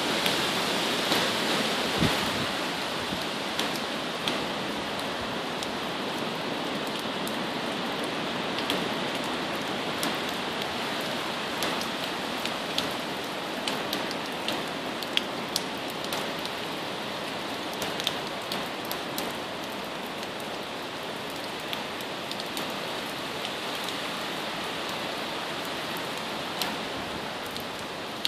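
Hurricane rain and wind: a steady rush of heavy rain with frequent sharp ticks of drops striking close by, slowly easing over the stretch.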